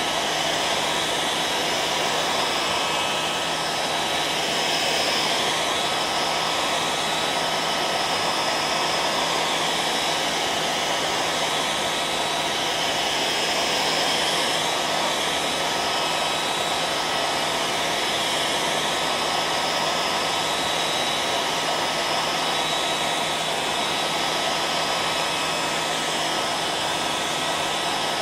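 Hair dryer running continuously: a steady blowing whoosh with a constant motor hum.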